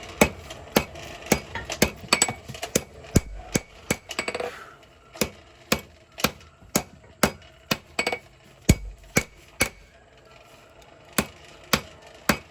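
Hand forging hammer striking a hot bar of 5160 spring steel, shaping a knife blade: a steady run of sharp blows about two a second, with a short pause near the end before the blows resume.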